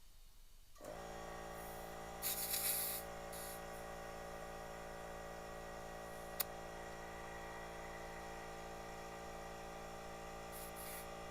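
Air compressor running steadily, with short bursts of air hissing through the air chuck at the tire valve about two seconds in and again near the end, and a single sharp click around the middle.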